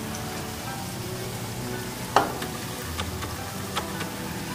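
Kulkuls, small curls of sweet dough, deep-frying in hot oil on a medium flame, sizzling steadily, with a sharp tap about two seconds in and a couple of fainter ones after. Soft background music runs underneath.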